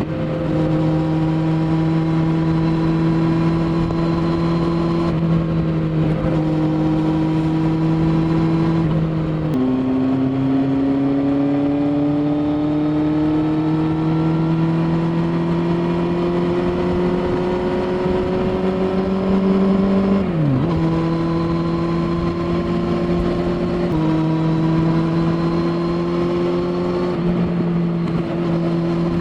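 2015 Kawasaki Z800's inline-four engine running through an SC Project oval carbon slip-on exhaust. It holds steady revs at first, then its pitch rises slowly for about ten seconds from a third of the way in. The pitch drops suddenly after that and settles back to a steady note.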